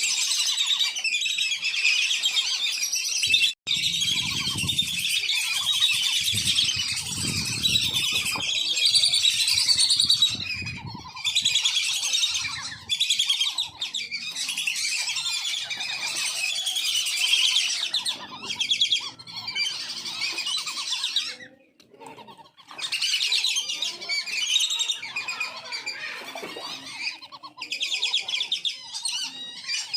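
A group of wandering whistling ducks calling continuously: a dense run of high whistles and twitters, with a short lull about two-thirds of the way through.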